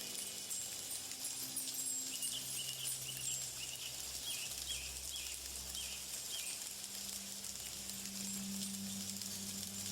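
Outdoor nature ambience: a steady high hiss with a bird giving a run of about nine short, quick chirps from about two seconds in to past the middle.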